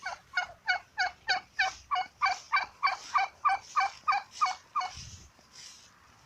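Domestic fowl calling: a run of about fifteen evenly repeated harsh calls, roughly three a second, that stops about five seconds in.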